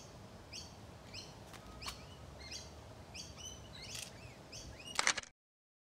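A bird calling over and over, a short falling chirp about every two-thirds of a second, over faint outdoor background noise. Near the end there is a brief cluster of loud clicks, then the sound cuts off to silence.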